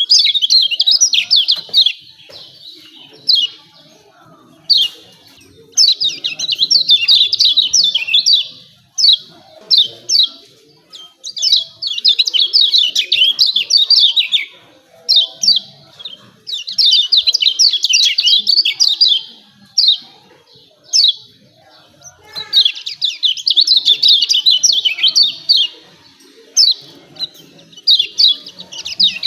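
Kecial kuning white-eye giving its rapid 'ciak ciak' chirping calls: runs of quick high chirps lasting one to three seconds, broken by single sharp notes and short pauses.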